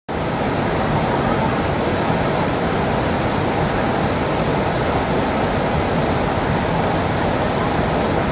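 Bantimurung waterfall's broad cascade pouring steadily: a continuous, even rush of falling water, heavier in the low and middle range than in the highs.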